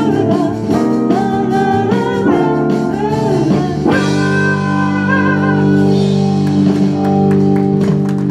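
Live band music led by guitar, ending a song. About halfway through, the band settles into one long held final chord.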